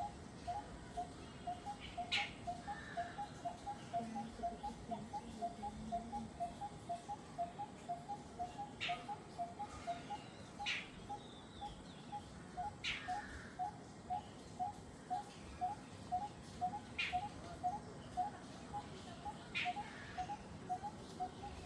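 Jungle birdsong: one bird repeats a low hooting note over and over, alternating between two pitches at about two to three notes a second, while another bird gives a sharp, high call every couple of seconds.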